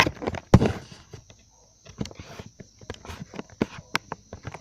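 A steady high insect chorus, typical of crickets, under irregular sharp knocks and rustles close to the microphone, the loudest about half a second in.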